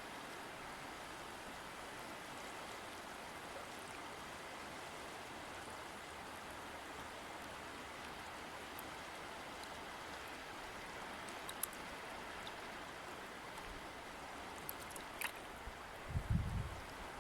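River water flowing steadily, an even rushing. A few low thuds come near the end.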